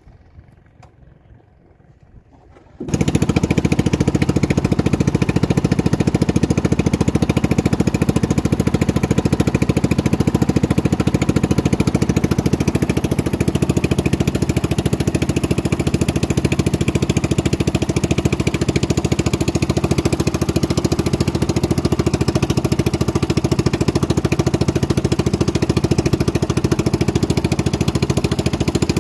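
Boat motor running steadily and loudly, cutting in abruptly about three seconds in after near quiet.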